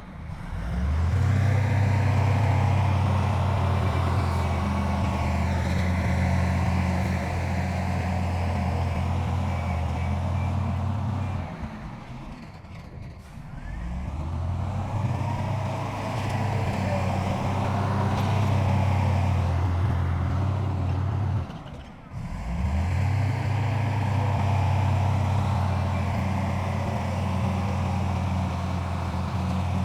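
Diesel engine of heavy earthmoving machinery running steadily. It drops away twice, about twelve seconds in and near twenty-two seconds, then picks back up.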